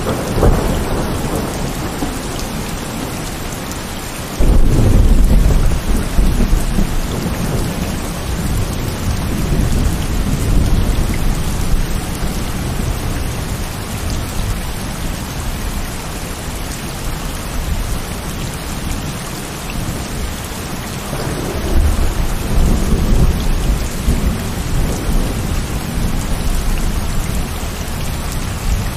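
Heavy rain falling steadily with thunder. A loud low rumble starts abruptly about four seconds in and rolls on for several seconds, and a second rumble swells about two-thirds of the way through.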